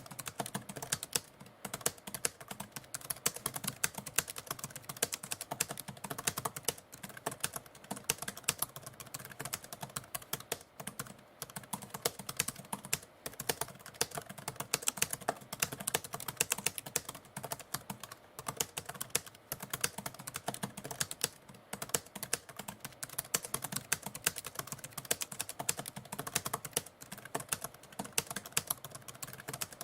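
Typewriter keys being typed in a rapid, continuous run of clicks, broken by short pauses.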